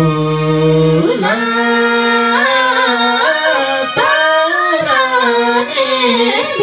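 Nepali song: a singer draws out long, wavering notes over instrumental accompaniment.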